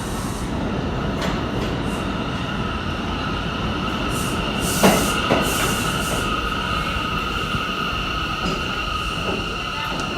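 New York City subway train running on the rails with a steady rumble. About halfway through, its wheels begin to squeal on two steady high pitches, and there are a couple of sharp clacks.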